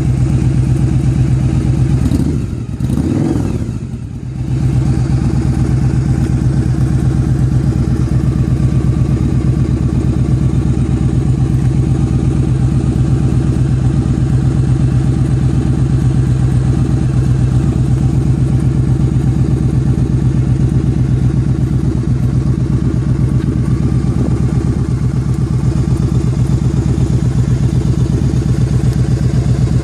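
Yamaha Drag Star 1100's air-cooled V-twin idling steadily through a Cobra aftermarket exhaust, with a brief dip in level and pitch about two to four seconds in before it settles back to a steady idle.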